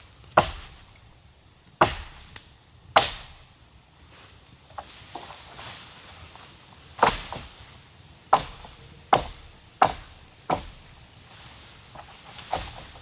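About ten sharp blows of a hand tool striking wood, irregularly spaced: a cluster near the start, a pause of about four seconds, then a second run of blows and one more near the end.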